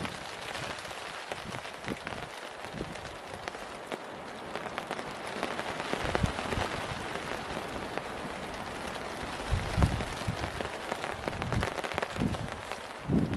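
Steady rain falling, a dense patter of drops, with a few dull low thumps about ten seconds in and again near the end.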